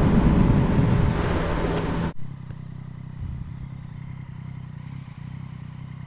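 Yamaha MT-09's three-cylinder engine with an Akrapovic carbon full exhaust, riding along with heavy wind rush. About two seconds in, this cuts off suddenly to a quieter, steady low engine sound.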